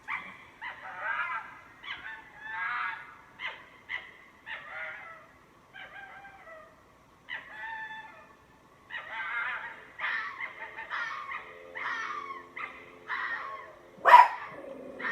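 Chickens clucking and crowing in a quick, steady series of short calls, with one much louder, sharp call near the end.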